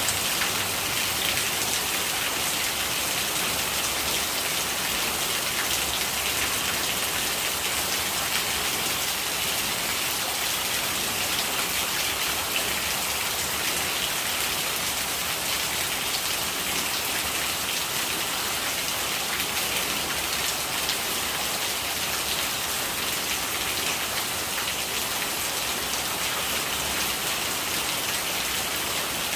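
Steady rain, with dense drops pattering on surfaces at an even, unchanging strength.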